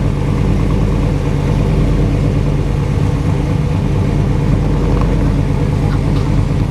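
Supercharged V8 of a 1956 Chevrolet Bel Air, running steadily at idle with an even, pulsing exhaust beat.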